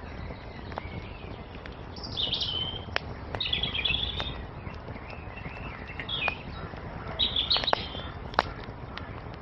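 Wood fire crackling with scattered sharp pops, one louder pop near the end, over a low steady rumble, while small songbirds sing several short chirping phrases.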